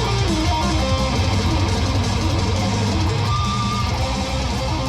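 Electric guitar shredding: fast lead lines over a heavy bass backing, with a held, wavering note a little past halfway.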